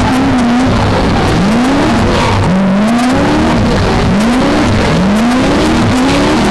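V8 engine of a BMW E30 drift car revving hard and repeatedly: the note climbs, drops back and climbs again roughly once a second as the throttle is worked through a drift.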